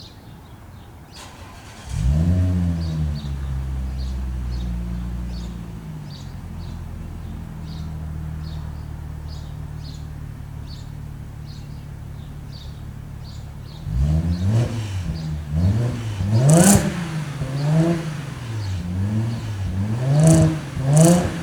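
2013 Audi S4 supercharged 3.0 V6 through an exhaust with test pipes (no catalytic converters), Magnaflow mufflers and a Borla resonated X-pipe, cold-started. It catches about two seconds in with a brief flare and settles into a steady fast idle. About two-thirds of the way through come a series of short throttle blips that rise and fall, with a few sharp cracks among them.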